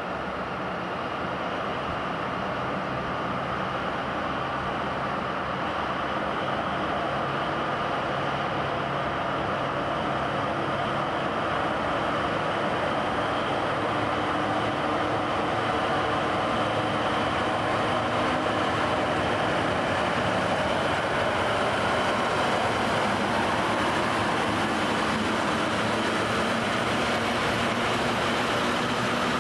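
Two Czech class 753.7 diesel locomotives running as they haul a freight train of tank wagons past, the engine sound growing gradually louder over the first half as they draw near, then the steady rolling rumble of the wagons going by.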